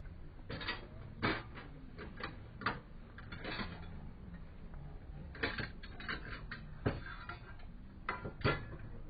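A dozen or so irregular sharp clicks and knocks, some in quick pairs, over a faint steady background.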